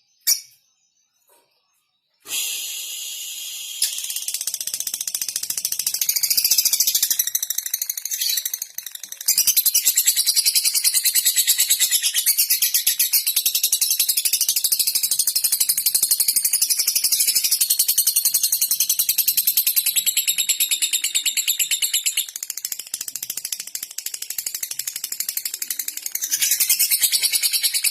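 Lovebird giving a long, very rapid, high-pitched ticking chatter: the 'ngetik' and 'ngekek' call. It starts about two seconds in after a couple of short clicks and then goes on without a break.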